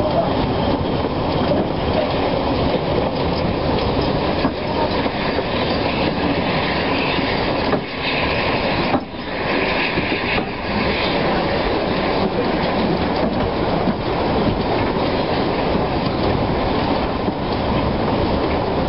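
Narrow-gauge train behind steam locomotives running steadily, heard from an open carriage window: wheels clattering over the rail joints under a continuous rumble. About eight to eleven seconds in a higher squealing note from the wheels on the curve comes up over the rumble.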